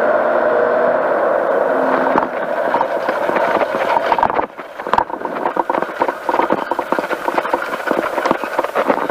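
Powered parachute engine running steadily. About two seconds in, the steady note gives way to irregular crackling and rattling that continues to the end.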